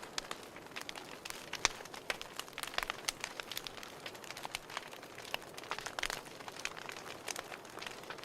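Fireplace wood fire crackling: irregular sharp pops and snaps over a soft steady hiss.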